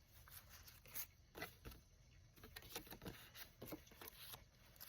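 Faint rustling and light clicks of paper tags and ephemera being handled.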